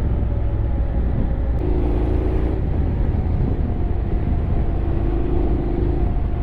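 Honda X-ADV 750 parallel-twin engine running steadily while riding, a continuous low rumble with engine tones coming and going as the throttle shifts slightly.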